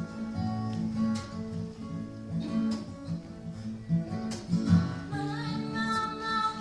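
Acoustic guitar playing an instrumental passage of a slow country-bluegrass song, with a steady strummed rhythm and bass notes. A singing voice comes in about five seconds in.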